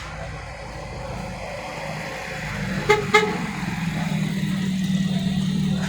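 A car horn gives a quick double toot about three seconds in, over a vehicle engine running steadily that grows louder toward the end.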